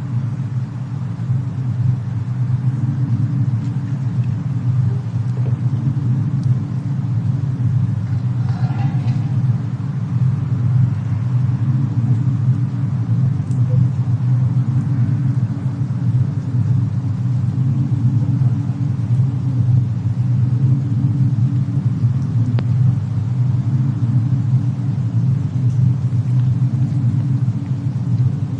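Snowstorm and fireplace ambience: a steady, deep rumble of storm wind, with a few faint, scattered fire crackles.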